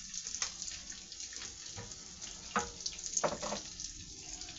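Chicken nuggets frying in butter and hot sauce in a pan: a steady sizzle with a few sharper crackles about half a second, two and a half, and three seconds in.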